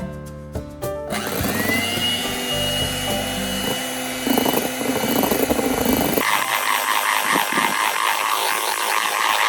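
Small electric hand mixer running steadily, typical of whipping egg whites into meringue for soufflé pancakes. Soft piano music plays underneath and drops away about six seconds in.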